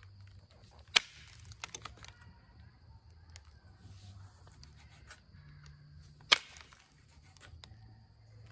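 Flintknapping strikes on Onondaga chert by indirect percussion, knocking thinning flakes off a spear point. Two sharp cracks about five seconds apart, with lighter clicks between them.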